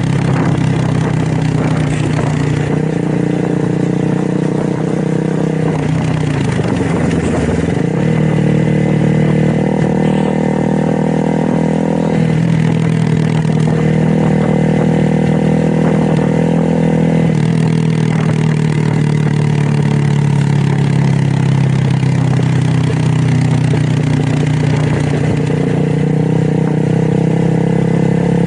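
Motorcycle engine and exhaust running while riding, its pitch stepping between gears and dropping then climbing again about a quarter of the way in.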